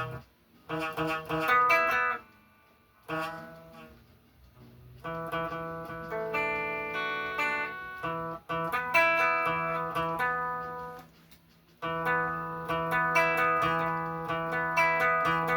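Guitar with a capo being played, picked single notes and ringing chords, stopping briefly a couple of times before picking up again.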